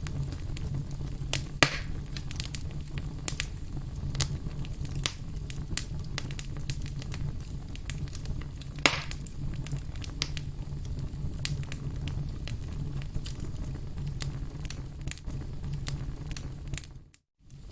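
Firewood burning, with frequent sharp crackles and pops over a steady low rumble, two pops louder than the rest. The sound drops out for a moment near the end.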